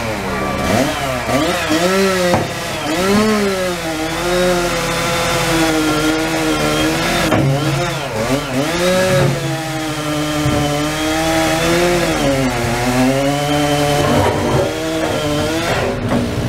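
Gasoline chainsaw running and cutting tree wood, its engine pitch rising and falling again and again as it revs and loads in the cut. A steadier low engine drone runs underneath through the middle.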